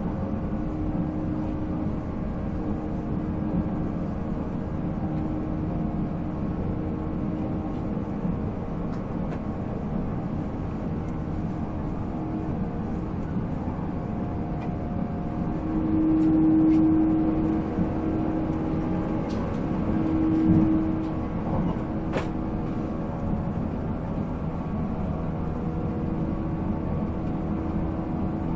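485-series electric train running on the line, heard from inside the car: the MT54 traction motors' steady hum and gear whine over the rolling rumble of the wheels. A whining tone swells twice near the middle, and there are a few faint clicks.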